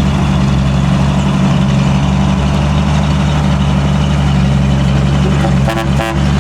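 Heavy truck's diesel engine running steadily at low revs. Near the end come two short pitched toots, like a horn.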